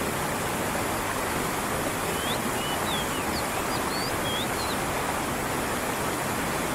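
Creek water running and falling over rocks in a steady rush. About two seconds in, a bird gives a quick series of short chirping whistles that lasts a couple of seconds.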